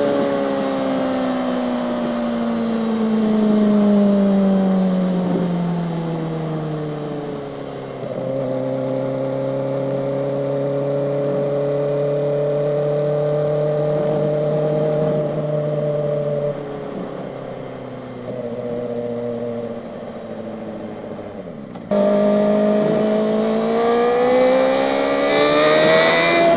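Kawasaki ZX-4RR's 399 cc inline-four engine on the road. The pitch falls over the first several seconds as the bike slows, holds steady for a while, then drops lower and quieter. About 22 seconds in it opens up suddenly, and the pitch climbs fast as the bike accelerates.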